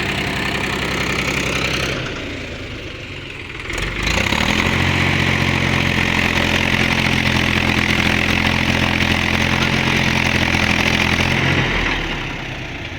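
Tractor diesel engine running, easing off about two seconds in, then revved up with a rising pitch about four seconds in and held at a higher, steady speed for some seven seconds before dropping back near the end.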